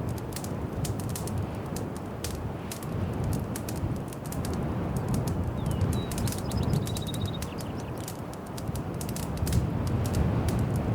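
Wood fire burning in a fireplace, crackling and popping irregularly over a steady low rumble. A faint high chirp comes about six seconds in.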